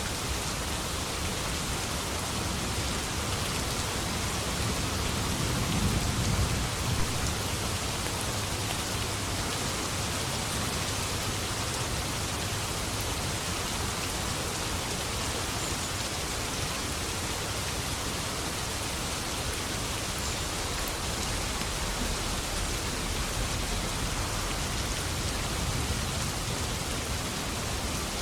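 Steady heavy rain falling, with a low rumble of distant thunder swelling about six seconds in.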